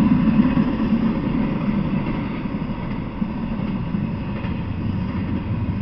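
Intermodal freight train rolling past: a steady rumble of steel wheels on the rails as flatcars with highway trailers and double-stack container cars go by.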